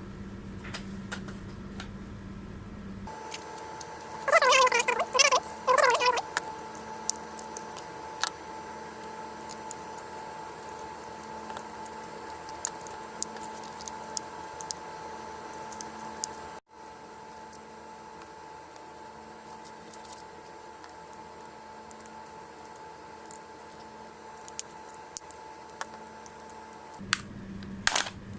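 Small metallic clicks and rattles of a screwdriver and screws as the casing screws of a JBL speaker are taken out, with a short wavering squeak about four seconds in.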